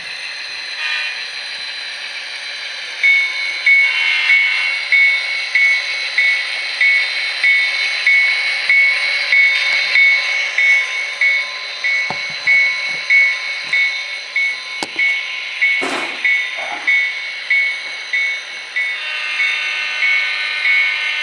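Digital sound-decoder locomotive sounds from an HO-scale model train: the diesel engine sound runs steadily, and from about three seconds in a bell rings at an even pace, about one and a half strokes a second. A horn joins near the end.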